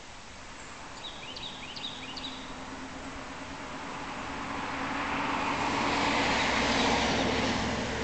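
A bird gives a few short, high chirps about a second in. Then a passing vehicle's noise with a low hum swells up, loudest near the end, and starts to fade.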